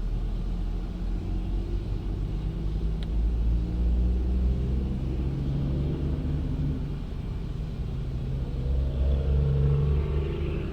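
Low, steady mechanical rumble of a car and car-wash machinery, with engine-like tones that drift slightly up and down. There is a brief click about three seconds in.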